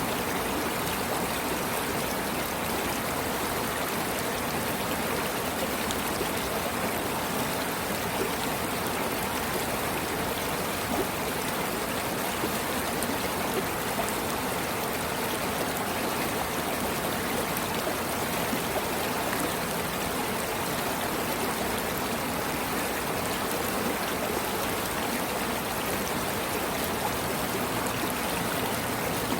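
Stream water flowing and trickling steadily, an even rushing with no breaks or changes.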